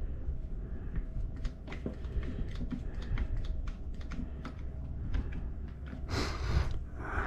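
A run of irregular light clicks and taps, then a brief harsh rush of noise about six seconds in.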